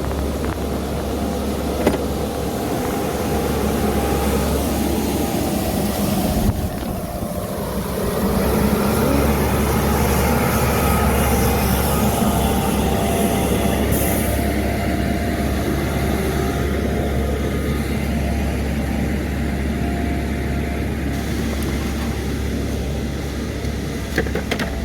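Steady city street traffic noise, vehicles going by in a continuous wash with a constant low rumble, swelling and easing slowly.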